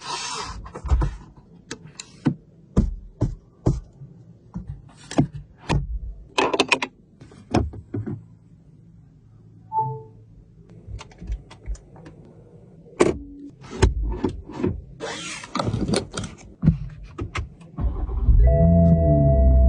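A series of irregular clicks and thunks from the Toyota Supra GR 2021, with a short two-tone chime about ten seconds in, then the engine starts with a quick flare near the end and settles into a steady idle.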